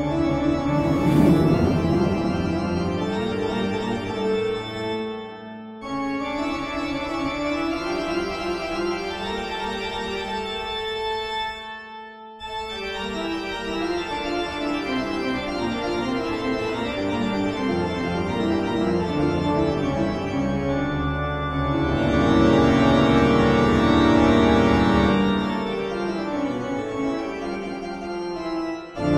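Instrumental background music of sustained organ chords. It dips briefly about six and twelve seconds in and swells louder near the end.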